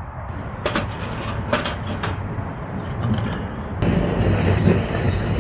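Wood fire burning in a fire pit, crackling with a few sharp pops in the first couple of seconds. About four seconds in, the sound changes abruptly to a denser, louder rushing with a low rumble.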